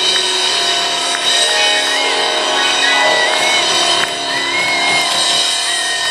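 Live music: held keyboard chords, with short high sliding tones repeating over them about once a second.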